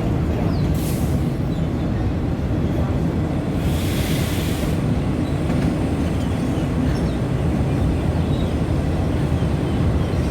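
Passenger train running, a steady low rumble of wheels on rail, with a short hiss about four seconds in.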